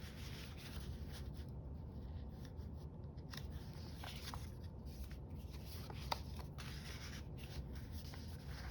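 Faint rustling of paper being handled, with a few light clicks and taps, over a steady low hum.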